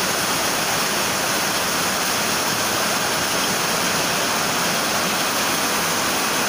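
Heavy rain pouring down: a steady, loud hiss that does not let up.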